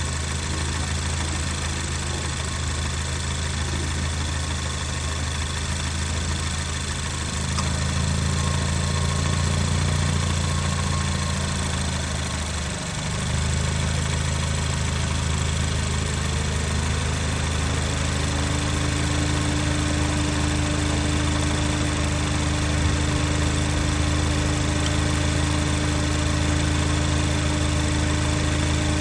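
Cadillac ATS engine idling steadily with the air conditioning running. About seven seconds in the sound steps up louder, and from about seventeen seconds a higher tone rises and then holds steady.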